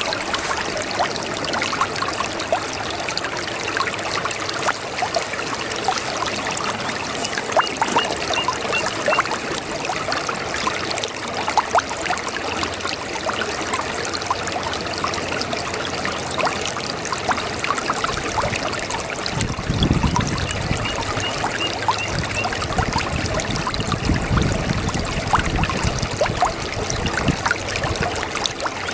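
A small brook babbling and trickling steadily over stones, full of small splashes and gurgles. A deeper low rumble swells in twice, past the middle.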